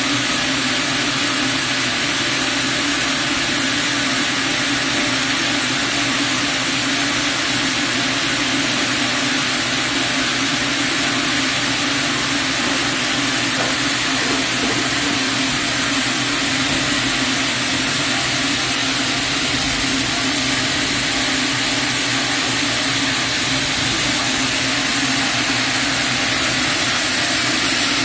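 Sawmill saw running steadily, a constant, unchanging machine noise.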